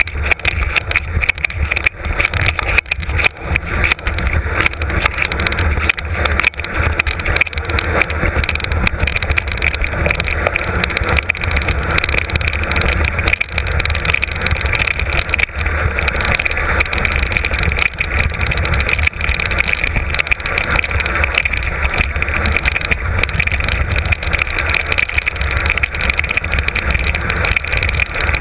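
Mountain bike descending a rough trail, heard from a camera mounted on the bike or rider: a continuous rattle and clatter of the bike over the ground, with a constant low rumble of wind on the microphone.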